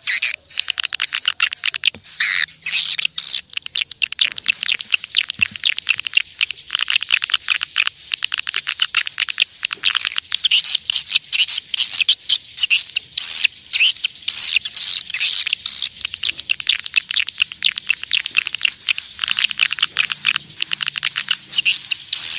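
Flock of edible-nest swiftlets twittering: a dense, unbroken chatter of rapid high chirps. This is the kind of swiftlet call recording played to draw swiftlets into a nesting house.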